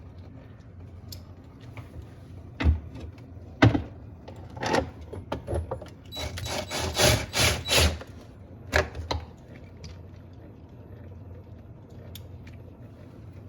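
Refrigerator ice-dispenser parts being fitted back into place by hand: scattered sharp knocks and clicks, with a quick run of about six clatters around the middle.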